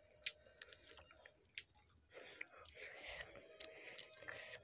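Close-up chewing and wet mouth sounds of someone eating rice and smoked chicken, with irregular sharp smacks and clicks.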